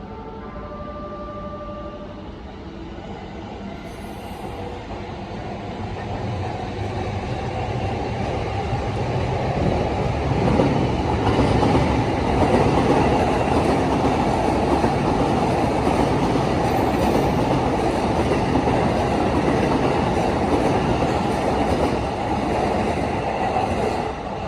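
Limited express train pulling out of the platform. Its running noise builds over the first ten seconds or so, then stays loud and steady as the carriages go by.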